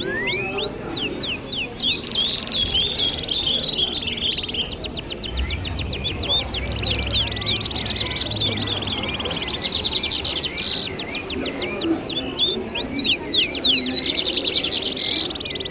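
Dense evening chorus of many birds calling at once: rapid sweeping chirps and fast trills that overlap without pause. A low rumble sits underneath from about two and a half to nine seconds in.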